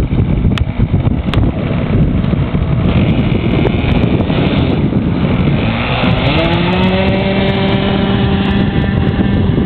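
The .46 glow engine of an RC trainer airplane running, its pitch rising about six seconds in and then holding steady, under heavy wind rumble on the microphone.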